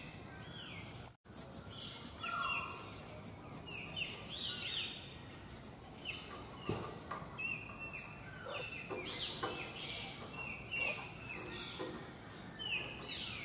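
Birds chirping: many short, falling calls repeating over a faint background hiss.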